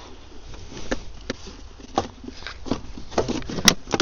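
Irregular clicks and knocks of hand tools and loosened parts under the bonnet, with one sharp, loud click near the end.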